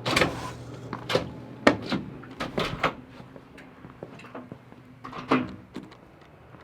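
A string of irregular sharp knocks and clatters, like a door or cupboards being handled, with the loudest in the first two seconds and another cluster a little after five seconds.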